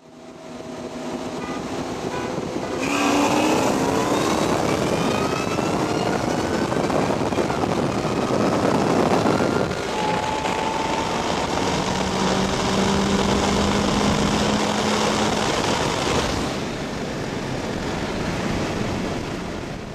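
Supercharged 4.6 Ford Mustang V8 heard from inside the car, holding steady for a few seconds, then launching hard about three seconds in with the engine note climbing. The pitch drops at a gear shift about ten seconds in and climbs again, and the engine eases off after about sixteen seconds.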